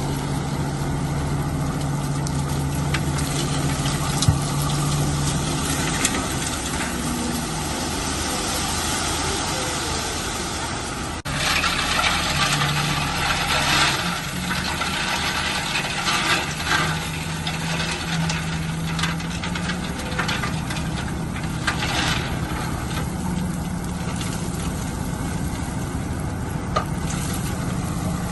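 Heavy construction machine's engine running steadily, with bursts of rattling and scraping from rock being handled. The sound breaks off abruptly about eleven seconds in and starts again.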